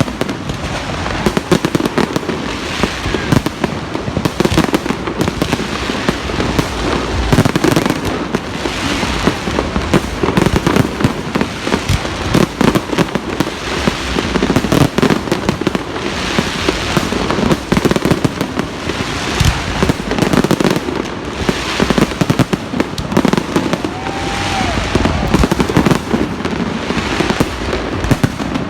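Many fireworks and firecrackers going off at once: a dense, unbroken barrage of bangs and crackling with no pauses.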